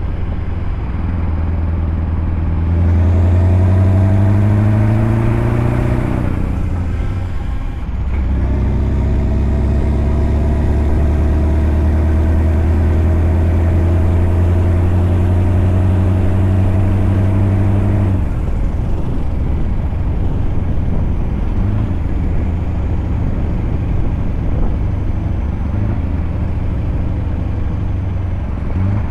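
Scania V8 truck engine pulling under load: its note rises for a few seconds, breaks off briefly as for a gear change, then holds a steady pull. About two-thirds of the way through it eases off to a lower, looser drone.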